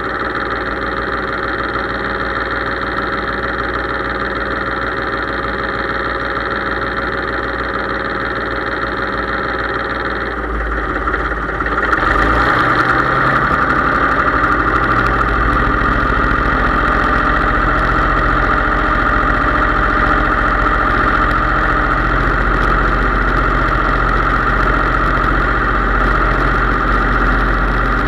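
Case IH 3220 tractor's diesel engine running steadily. About twelve seconds in its tone shifts and it gets a little louder, then holds steady.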